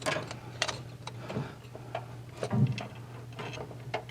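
Irregular light clicks and knocks of hand tools and metal parts being handled while the carburetor linkage and fuel lines are taken off an air-cooled VW engine.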